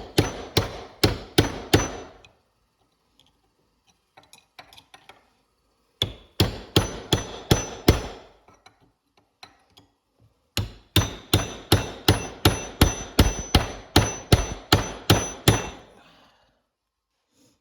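Hammer striking a steel punch to drive out and collapse an old transmission bushing, with a metallic ring on each blow. The blows come two to three a second in three runs, separated by pauses of a few seconds with small tool clicks.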